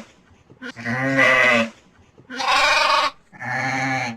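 Sheep bleating three times, each bleat under a second with a wavering pitch.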